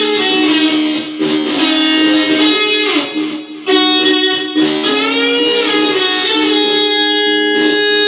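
Electric guitar playing a blues lead line: held, ringing notes, with one string bend that rises and falls back about five seconds in.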